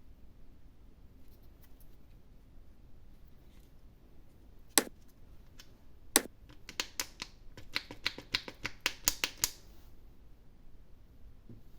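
Hands handling a surprise egg and its wrapping at close range: two sharp clicks a little over a second apart, then a quick run of about a dozen clicks.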